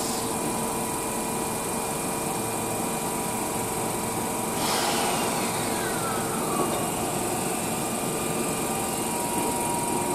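Keihan commuter train pulling into the station platform, a steady running noise with a falling whine about halfway through as it slows to a stop.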